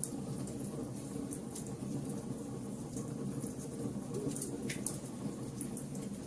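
Fire burning with scattered sharp crackles and pops over a steady low rumble.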